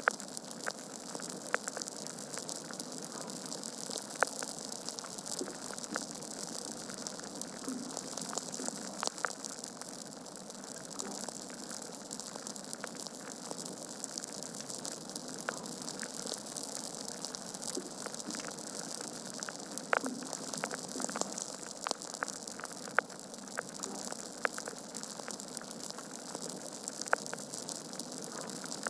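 Log fire burning in a fireplace: a steady hiss with frequent, irregular sharp crackles and pops, a few of them louder than the rest.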